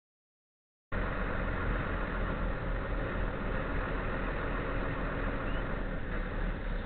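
Steady car engine and road rumble picked up by a dash camera's microphone, starting abruptly about a second in after dead silence.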